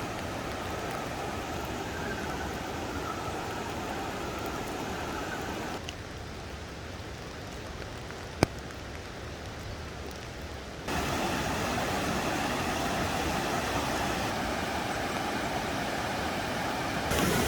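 Steady rushing of running water, in three stretches joined by abrupt changes in level about six and eleven seconds in. There is one sharp click about eight seconds in.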